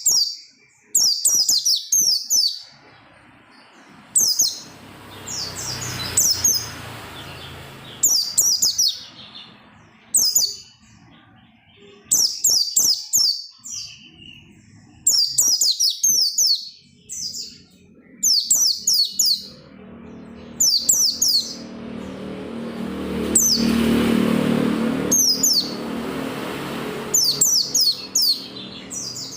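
White-eye (pleci) singing in short bursts of rapid, high-pitched chirping, one burst every second or two. A low background rumble rises and falls behind it.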